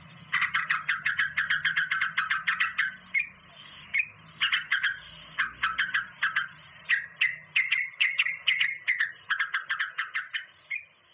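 A bird calling in rapid trains of short, sharp chirps, about eight a second, in bursts broken by brief pauses.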